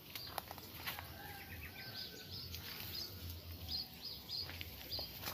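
A small bird calling with short, high chirps repeated about twice a second, with a few light crunches of footsteps on dry leaves and twigs in the first second.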